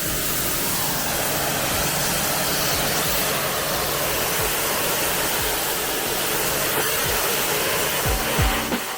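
Electric pressure washer running steadily, its motor humming under the continuous hiss of the water jet spraying out the planter.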